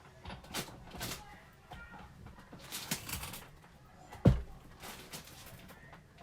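Handling of a Big Shot die-cutting sandwich of acrylic plates, shims and embossing folder: light clicks and rustles, and one heavy thump about four seconds in.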